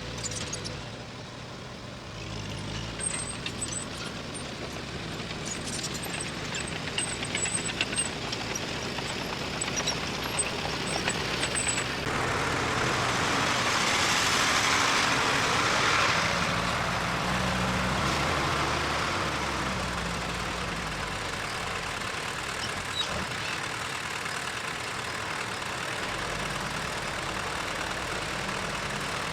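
Diesel engine of heavy earth-moving machinery running steadily, with scattered clanks in the first half. A louder noise rises and fades about halfway through.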